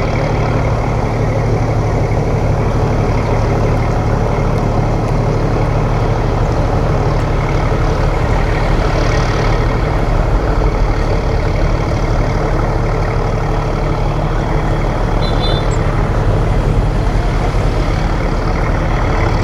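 Boat engine running steadily at constant speed, a continuous low drone.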